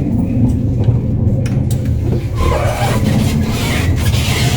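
Steady low rumble of a moving VR double-decker passenger train, heard from inside the carriage, with a louder hissing noise from about halfway through.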